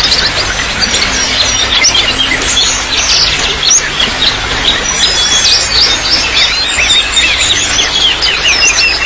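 Trickling water running steadily, with a crowd of small birds chirping and twittering in quick, overlapping calls.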